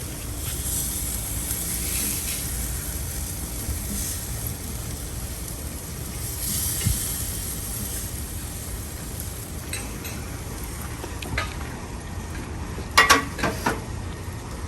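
Italian sausages sizzling on the grate of a Big Green Egg charcoal grill: a steady hiss, with a few short sharp clicks near the end.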